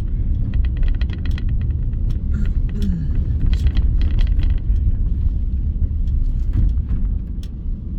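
Car driving, heard inside the cabin: a steady low road and engine rumble, with many light irregular ticks and taps over it, thickest in the first few seconds.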